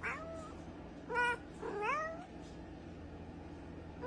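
Domestic cat meowing three times in quick succession, the first and last meows rising in pitch.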